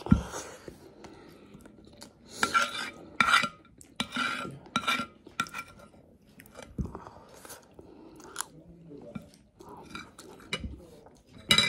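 Close-up eating sounds: a person biting and chewing a chicken leg with biryani rice, with irregular crunchy bursts about two seconds in, again around four to five seconds, and once more near the end. Small clicks of a plastic spoon against a ceramic plate.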